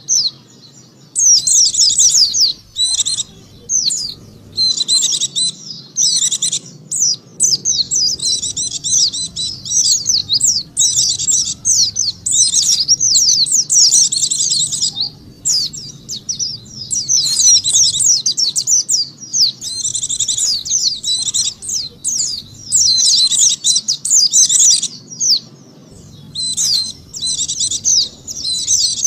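White-eye (pleci) song used as a lure call: rapid, high-pitched twittering phrases of one to three seconds, repeated with short breaks.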